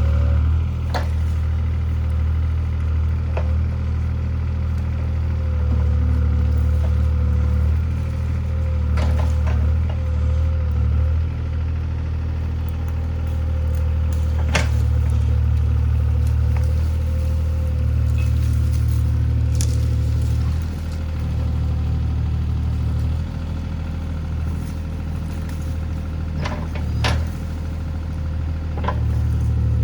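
Mini excavator's diesel engine running steadily, its level rising and falling with the load. Several sharp cracks of splintering wood come through it as trees and brush are broken.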